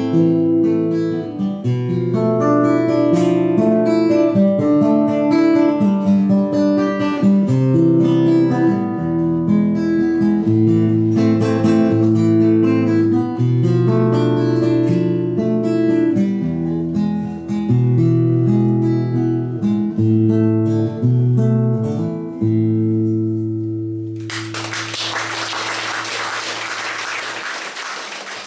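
Acoustic guitar playing the song's instrumental ending, picked notes over long held bass notes. About 24 seconds in the guitar stops and the audience breaks into applause.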